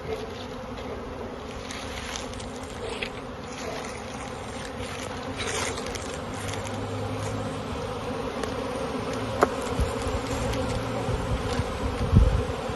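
Honey bee swarm buzzing steadily. A sharp click comes about nine seconds in, and a low thump near the end is the loudest sound.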